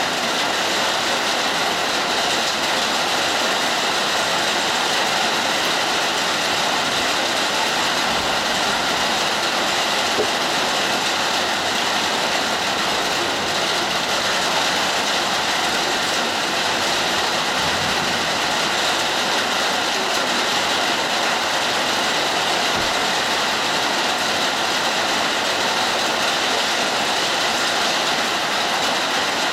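Hard rain falling in a steady, even hiss.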